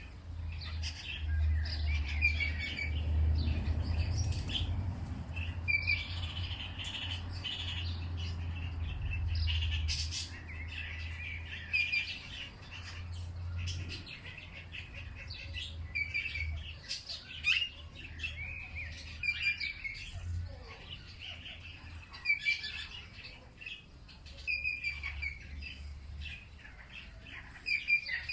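A chorus of songbirds chirping and twittering throughout, many short overlapping calls. Underneath runs a low steady rumble that fades out near the end.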